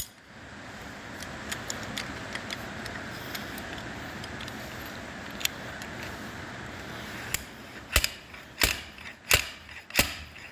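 Faint clinks of metal tools over a steady hiss, then, from about seven seconds in, a run of sharp metal knocks about one and a half a second while a very tight bearing in a John Deere 820 clutch is worked at.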